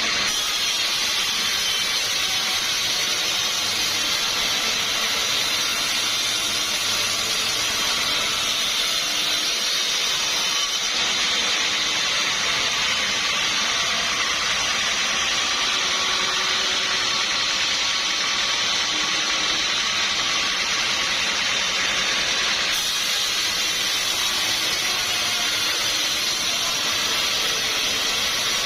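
Sawmill saw cutting through timber: a steady, even hiss.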